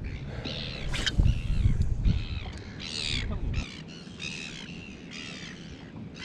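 Birds calling over and over, a run of short harsh cawing calls, over a low rumble that stops about three and a half seconds in.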